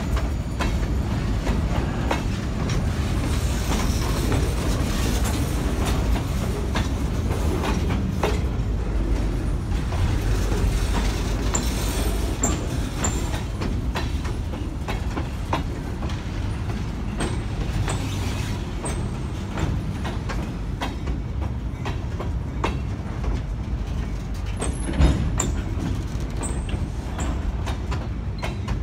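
Empty freight train of open-top gondola cars rolling past, steel wheels clicking over the rail joints over a steady low rumble. A sharper bang comes near the end.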